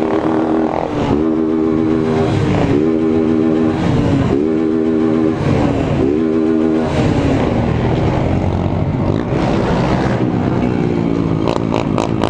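Single-cylinder Honda 160 motorcycle engines revved in repeated bursts about every second and a half, each rising quickly and then held flat at the rev limiter for about a second, over a constant rumble of motorcycles riding together. After about seven seconds the revving stops and the engines run on steadily.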